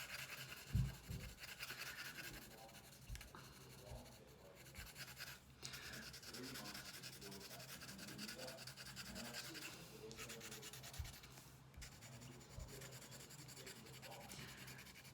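Colored pencil rubbing back and forth over paper, a faint scratchy shading sound as blank spots of a drawing are filled in, with a few soft knocks and a low steady hum underneath.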